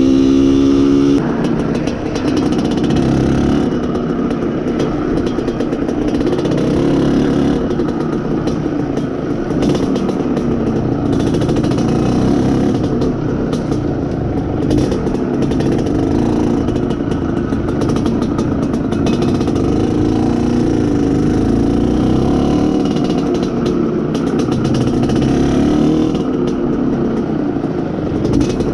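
Izh Planeta Sport's single-cylinder two-stroke engine running under load as the motorcycle is ridden. Its revs climb to a high note, then drop abruptly about a second in, and it keeps running steadily and roughly after that. The engine is being run in.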